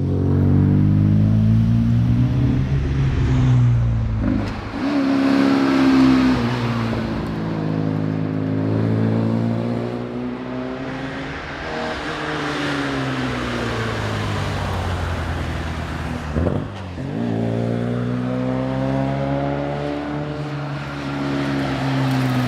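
Classic Morris Mini Cooper S's A-series four-cylinder engine under way, its pitch climbing and falling as it accelerates and lifts off. There are two quick gear changes, about four and a half and sixteen and a half seconds in.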